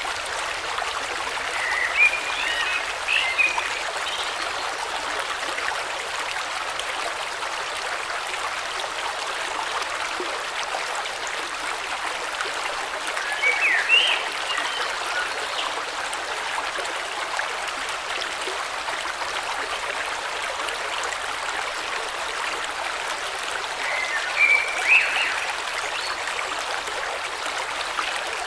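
A river flowing steadily, with a bird singing a short phrase three times, about ten seconds apart, over the water.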